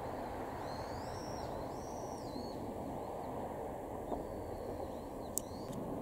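Small birds calling, a few short chirps that rise and fall, over a steady low outdoor rumble. Two faint clicks near the end.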